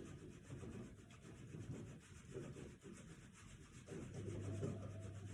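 Faint, repeated rubbing and scraping as a homemade base-isolated model structure and its base are shaken back and forth.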